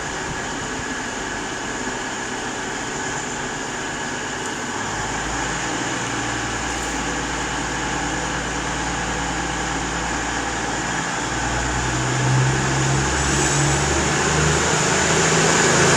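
Underfloor diesel engines of an East Midlands Railway Class 222 Meridian unit running as the train pulls away from the platform. A steady hum grows louder, and the engine note steps up in pitch over the last few seconds.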